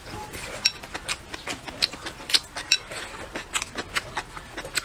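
Close-miked chewing of a mouthful of stir-fried bacon and rice shoots: irregular sharp wet smacking clicks from the mouth, several a second.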